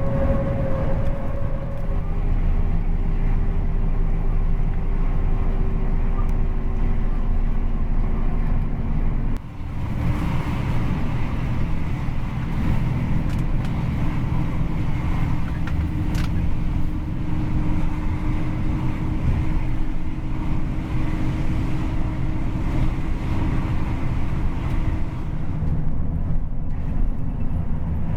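Coach bus engine with an aftermarket racing exhaust, running steadily on the road as a dense low rumble. The rumble dips briefly about a third of the way in, then carries on.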